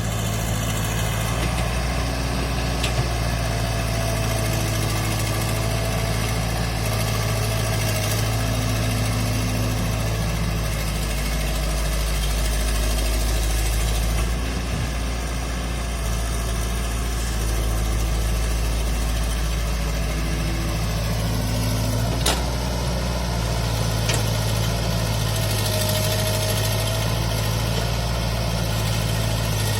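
Sonalika DI 750 tractor's diesel engine running steadily at low revs, with a single sharp click about two-thirds of the way through.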